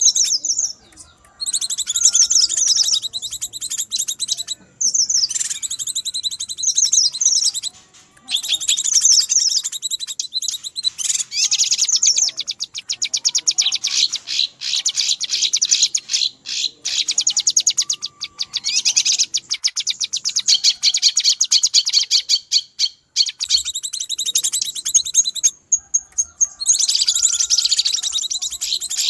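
Cucak kinoi bird calls from a lure recording: agitated, busy chattering of rapid high chirps and trills that runs almost without a break, with short pauses about one, five and eight seconds in and again near the end.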